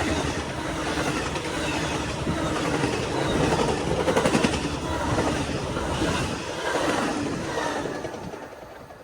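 Amtrak passenger train passing at speed, its wheels clattering over the rail joints; the sound drops away sharply about eight seconds in as the train goes by.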